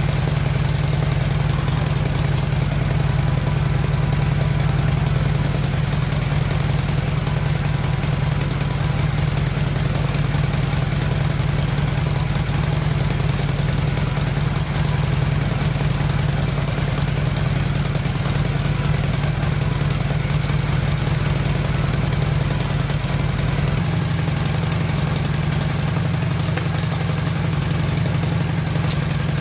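Honda Shadow VT600's V-twin engine idling steadily through its refitted exhaust. Near the end the idle picks up slightly.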